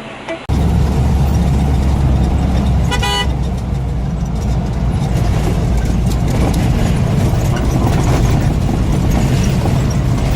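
Steady low rumble of a vehicle driving, with a short vehicle horn honk about three seconds in.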